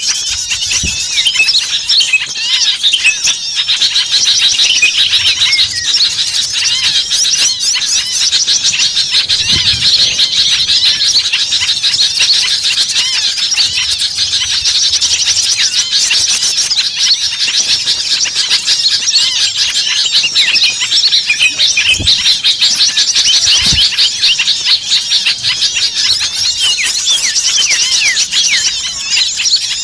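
A dense chorus of many small songbirds chirping and calling over each other, with rapid, high-pitched overlapping notes and no break. It is a noisy, agitated mix of calls from a bird-lure recording made to draw small birds in.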